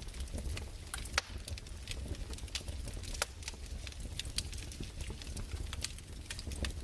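Fireplace fire crackling: irregular sharp pops and snaps over a low steady rumble.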